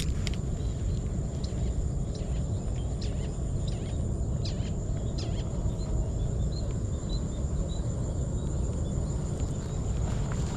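Open-field ambience: a steady low rumble of wind on the microphone under a thin, steady, high-pitched insect drone. A string of faint short bird chirps comes about two-thirds of the way in, with a few faint scattered ticks.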